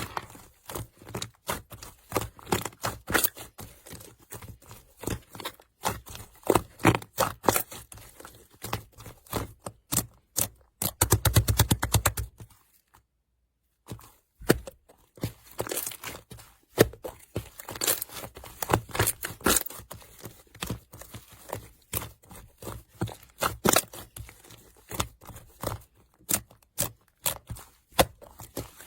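Slime being squeezed and poked by hand, giving a dense run of irregular wet clicks and pops, with a louder cluster of squelches about a third of the way in. The sound drops out completely for about two seconds just after it.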